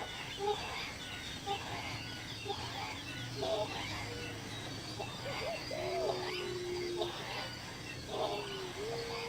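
Birds calling: a run of short, scattered calls, with a longer, steady whistled note about six seconds in and another near the end.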